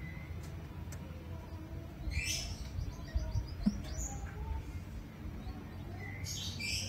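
Birds chirping in the background: a short burst of chirps about two seconds in, a falling whistle around four seconds, and more chirping near the end, over a low steady rumble.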